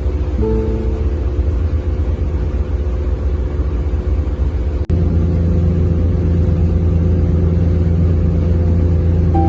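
Steady low engine rumble of a canal boat, breaking off sharply about halfway through and coming back louder and steadier.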